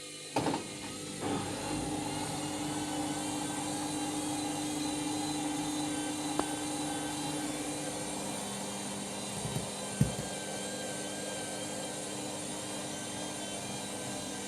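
Candy Grand'O Vita washing machine running its pre-wash: a steady motor whir with held tones that shift in pitch about eight seconds in, and a few short knocks near the start and again about ten seconds in.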